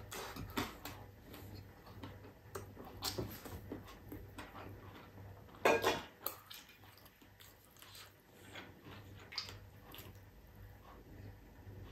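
Close mouth sounds of a person eating crispy fried fish and rice: scattered wet chewing and short crunching clicks, with one louder crunch about six seconds in.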